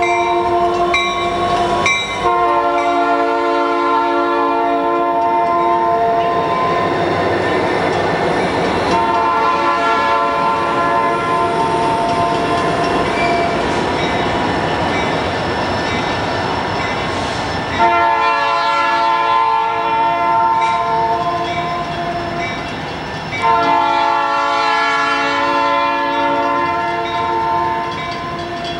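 Diesel freight train passing close, its locomotive's multi-note air horn sounding several long blasts, with the rumble and clatter of wheels on rail in the gaps between them.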